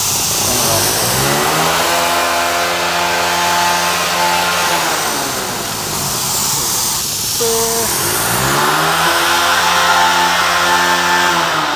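An engine revved up twice, each time climbing in pitch, held at high revs for a few seconds, then dropping back, over a steady hiss.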